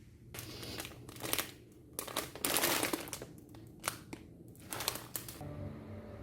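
Crinkling, rustling handling noise in a run of short bursts lasting about five seconds, loudest in the middle, then it stops.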